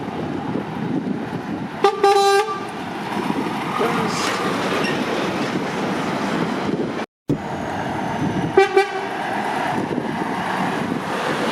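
A vehicle horn toots once for about half a second, then gives two quick short toots later on, over steady traffic and engine noise.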